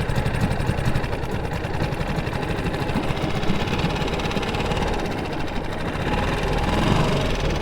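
Boat's outboard motor idling steadily with a fast, even pulse, running on test after its impeller gasket was refitted and its lower unit tightened down.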